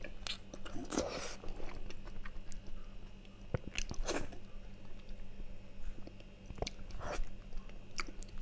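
Close-miked eating sounds: wet chewing and lip smacks as a soft piece of food is bitten and chewed, with the sharpest smacks about a second in, around four seconds in and around seven seconds in.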